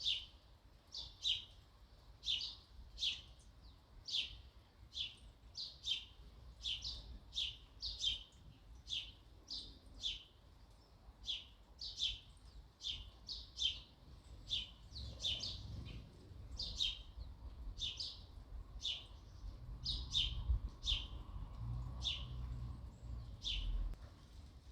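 Sparrow chirping repeatedly: short, sharp single chirps, about one or two a second, kept up steadily.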